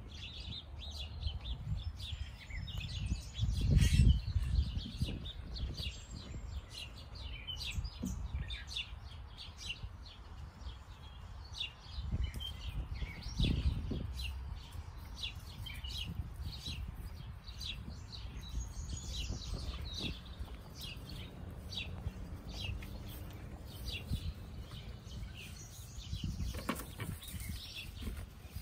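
Birds chirping over and over in quick short notes, with low thuds about four seconds in and again around thirteen seconds.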